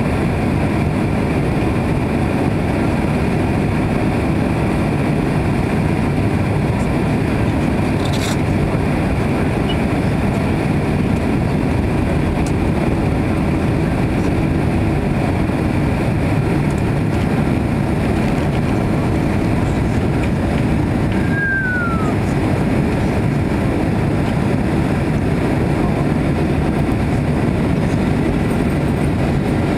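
Steady cabin noise inside a Boeing 767-300 on the ground: the engines run with an even low rumble. A brief falling squeak is heard about two-thirds of the way through.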